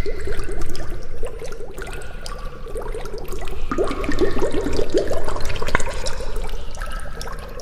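Water bubbling and gurgling: a quick, irregular run of short rising bubble chirps, busiest about halfway through.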